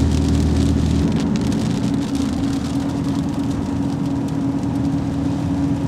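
A motor vehicle's engine running steadily, a low hum with a hiss over it.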